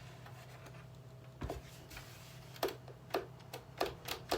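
Sharp clicks and taps from the boombox being worked over by hand, sparse at first and coming faster toward the end, over a faint steady hum.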